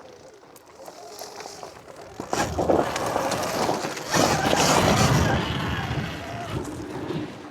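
Surron Ultra Bee electric dirt bike riding past, its tyres on loose quarry ground. It comes in about two seconds in, is loudest near the middle and fades away toward the end.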